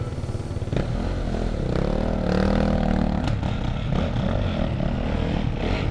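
Dirt bike engine running on a trail, its revs rising and falling about two to three seconds in, with a few sharp knocks and clatter from the bike over rough ground.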